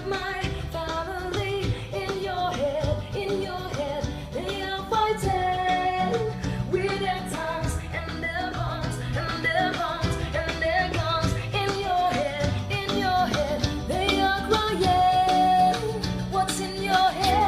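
A song with a singing voice over a steady bass line, played back through Yamaha NS-10M loudspeakers driven by a Yamaha Natural Sound amplifier.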